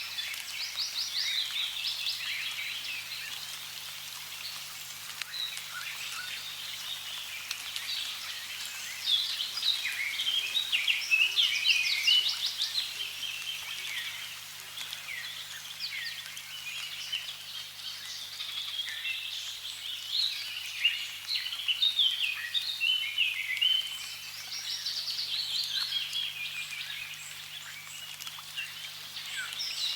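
A chorus of birds chirping and trilling continuously, with many overlapping quick calls, over a faint hiss of running water.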